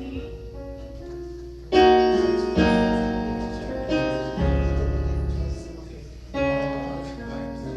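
Piano or electric keyboard playing hymn chords with a deep bass, several full chords struck in turn and left to ring and fade.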